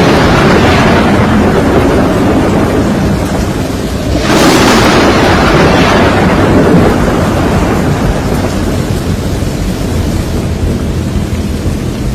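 Hurricane storm noise: a loud, steady rush of rain and storm, with a sudden crash-like surge about four seconds in that fades slowly over several seconds.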